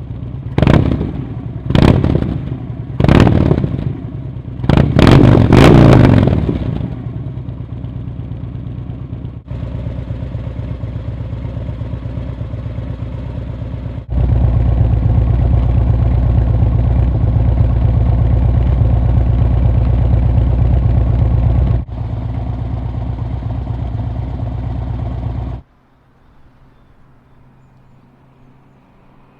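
Harley-Davidson V-twin motorcycle engine revved in four quick blips, then idling steadily. The idle jumps louder partway through, then drops away suddenly near the end, leaving only a faint low hum.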